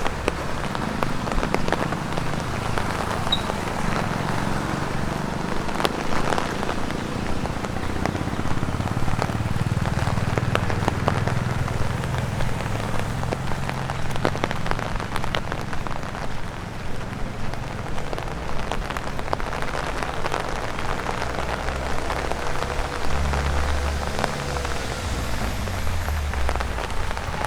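Rain pattering on an umbrella, with many separate drops tapping on it, over a steady hiss of rain on a wet road. A low rumble runs underneath.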